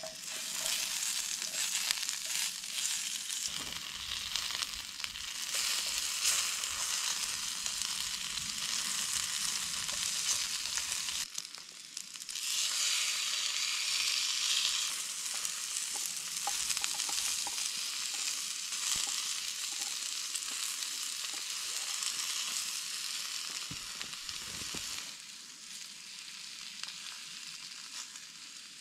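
Potato chunks and steak frying in hot oil in a pan over a wood-fired Bushbox stove: a dense, steady sizzle as the food goes in and is stirred. The sizzle breaks off briefly about eleven seconds in, returns louder, and grows fainter over the last few seconds.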